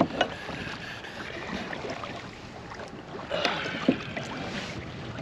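Water lapping against a kayak hull, with a few sharp knocks: one right at the start and another about four seconds in.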